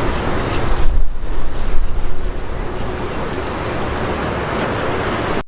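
Boat engine running amid crashing surf, with wind buffeting the microphone in heavy gusts for about a second near the start. The sound cuts off abruptly at the end.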